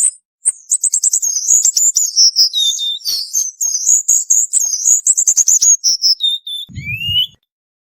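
Cuban bullfinch singing a rapid, dense run of high twittering chirps for about six seconds, ending in a few lower notes and a short rising whistle. A brief low thud comes near the end.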